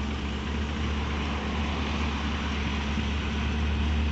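Peugeot 205's engine running steadily at low revs as the car moves off, a constant low hum with no revving.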